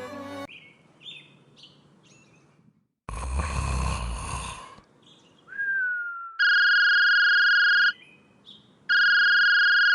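Two long, steady electronic beeps, each about a second and a half, in the second half. Earlier there is a short burst of rumbling noise and a brief falling tone.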